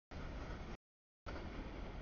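CSX freight train cars rolling past, a steady noise of wheels on rail. It is heard in two chunks, each cut off dead by complete audio dropouts about half a second long.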